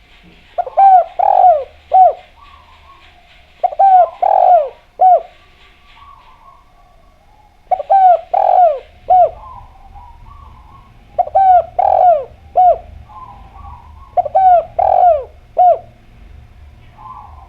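Spotted dove (derkuku/tekukur) cooing: five phrases of about four falling, hollow coos each, repeating every three to four seconds. Faint small-bird chirps fill the gaps between phrases.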